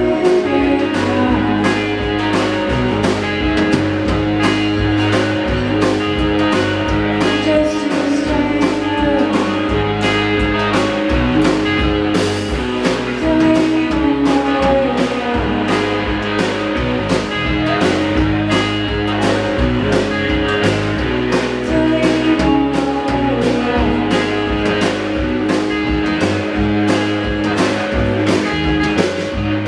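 Live blues-rock band playing, with electric guitar over a steady drum beat.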